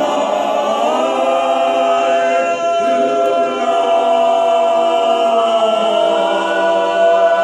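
Barbershop-style a cappella voices holding one long close-harmony chord.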